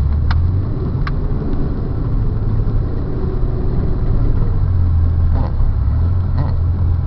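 Car engine and drivetrain running steadily while driving through a curve, heard from inside the cabin as a low hum, with a few short ticks and knocks.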